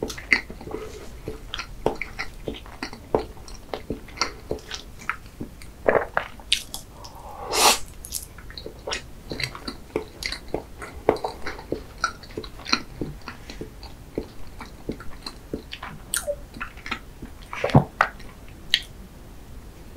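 Close-miked mouth sounds of chewing soft chocolate layer cake with cream: a steady run of wet smacks and small squishing clicks. A louder, half-second sound comes about eight seconds in, and the fork scrapes into the cake on the board near the end.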